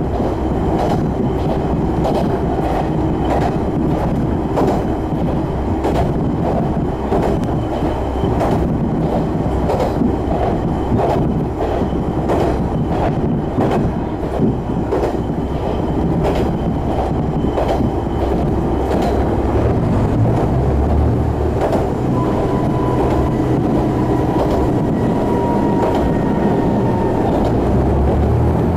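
A Joso Line diesel railcar running at speed, heard from inside the car: wheels clicking over rail joints over a steady rumble. The underfloor diesel engine comes up louder in the last third, with a faint steady whine.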